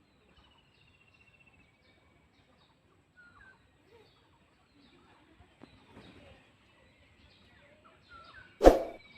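Faint, scattered bird chirps and a short trill, then one loud metallic clang near the end that rings briefly.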